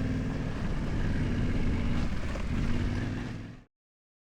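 A vehicle engine running with a steady low hum, fading out to silence a little after three seconds in.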